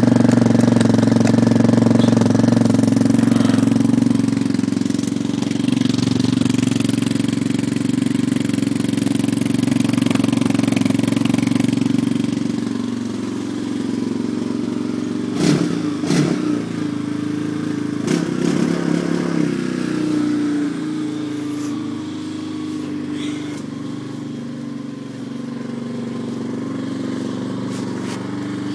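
2009 Yamaha Raptor 250 ATV's single-cylinder four-stroke engine idling steadily while it warms up from a cold start. A few short sharp clatters come a little past the middle.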